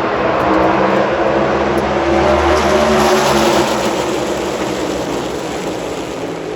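A pack of NASCAR Cup Series cars, their V8 engines running, passes the grandstand together. The sound swells to a peak about three seconds in, then fades away.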